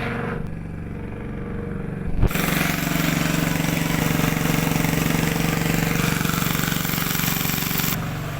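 Small engine running steadily. About two seconds in, a knock is followed by a loud rushing hiss that stops near the end.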